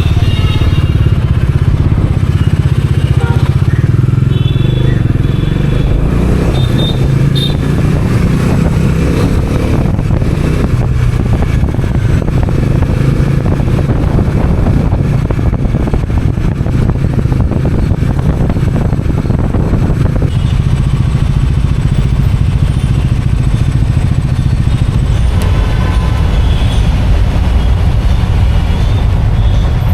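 Bajaj Dominar 400's single-cylinder engine running steadily as the motorcycle rides through city traffic, with road and wind noise. A few short high-pitched tones come through near the start and again near the end.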